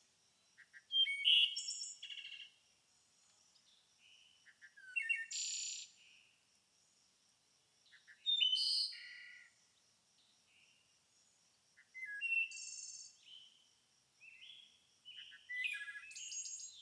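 Songbirds singing in short bursts of quick, high chirps and trills, about five phrases a few seconds apart with quiet gaps between, over a faint steady high tone.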